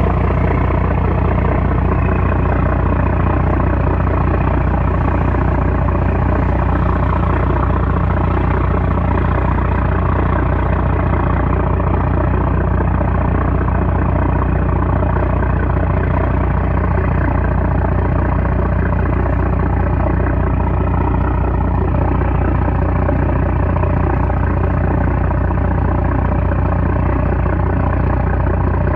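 A 330-horsepower trawler's diesel engine running steadily at a constant speed, with a deep, even drone.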